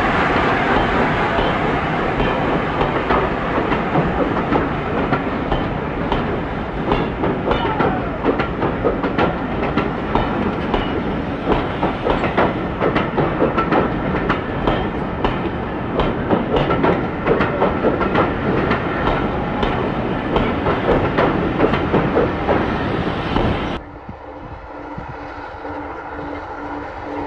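A train of passenger coaches rolling past, the wheels clicking and clattering over rail joints and points. About 24 seconds in it cuts off suddenly to a much quieter steady hum.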